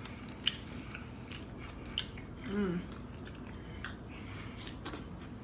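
Close-up chewing and biting of a sandwich, with a few sharp wet mouth clicks and a short hummed "mm" about two and a half seconds in.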